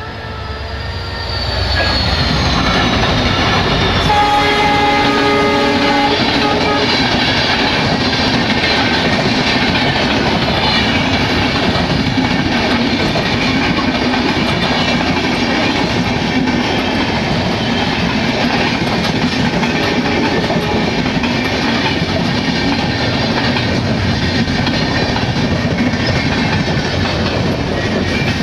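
An Indian Railways train hauled by an EMD diesel locomotive passes at speed. Its horn sounds for about two and a half seconds, starting around four seconds in. The rest is a steady loud rolling of wheels clattering over the rail joints.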